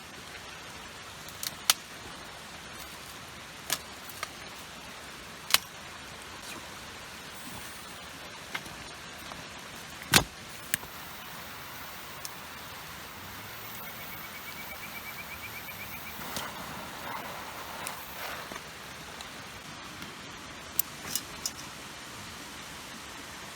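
Steady rushing water noise of the gorge, with scattered sharp clicks and pops and one louder knock about ten seconds in, and a brief high rapid trill a little after the middle.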